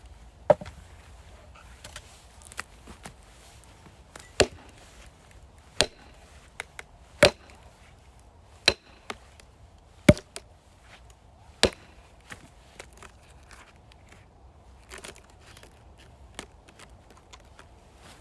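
Axe strikes splitting firewood: sharp single chops about every second and a half, seven loud ones in all, with lighter knocks of wood between them.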